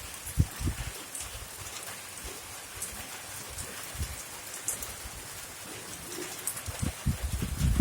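Steady rain falling in a garden: an even hiss with scattered ticks of individual drops. Low thuds about half a second in and again near the end.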